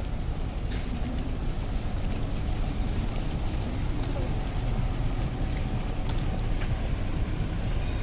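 City street ambience: a steady low rumble with a few faint clicks.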